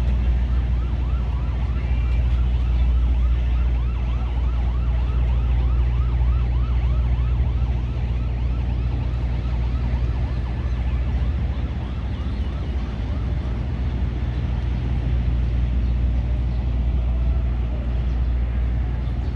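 Heavy machinery running with a steady low drone. Over the first half, a wavering high tone repeats about three times a second, like a siren's yelp.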